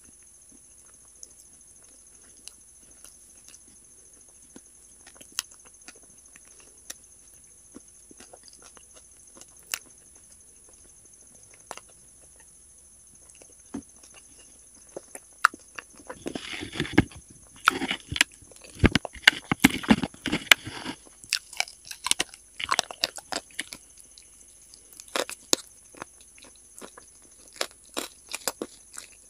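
Close-miked mouth sounds of someone eating wet chalk coated in paste: scattered soft clicks and smacks, then about five seconds of dense crunching and chewing past the middle, then scattered clicks again.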